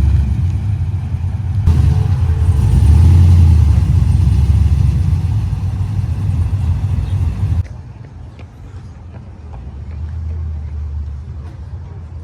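A car engine running with a loud, low rumble that cuts off suddenly about seven and a half seconds in, giving way to a quieter engine rumble that swells briefly and fades.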